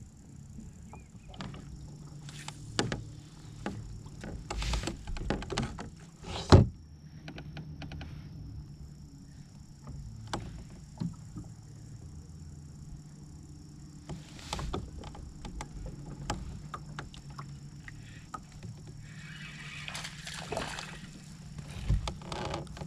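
Scattered knocks and clicks of fishing gear being handled and bumped against a kayak, with one sharp knock about six and a half seconds in, over a steady low hum.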